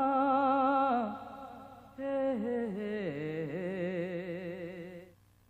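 A solo voice singing a slow, ornamented melody with wide vibrato, in two phrases: one ending about a second in, the next starting about two seconds in and fading out near the end.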